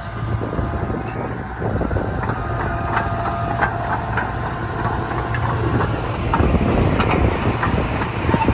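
Diesel engine of heavy earthmoving machinery running steadily with a low hum, with scattered light metallic clinks.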